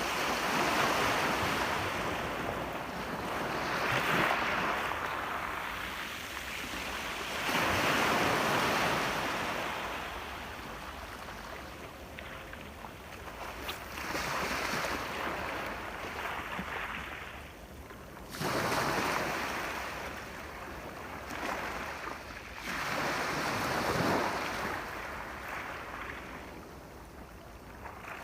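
Ocean waves breaking on a shore, the surf swelling and ebbing every three to four seconds, one wave arriving with a sudden rush about 18 seconds in.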